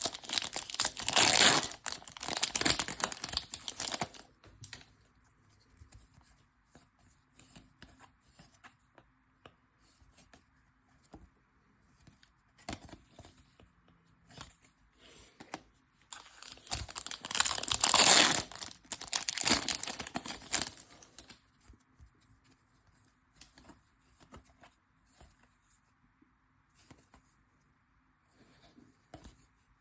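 Trading-card pack wrappers being torn open and crinkled, in two spells of tearing, one at the start and one past the middle. Faint rustles and clicks of cards being handled come between them.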